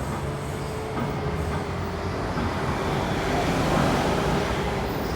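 Road noise from a moving vehicle: a steady low rumble with a broad hiss that builds a little over the few seconds.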